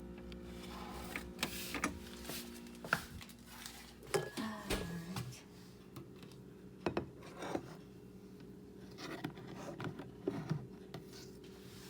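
Kitchen handling sounds: dishes and utensils clicking and knocking at irregular moments. A steady low hum runs underneath and stops about four seconds in, its pitch sliding down as it ends.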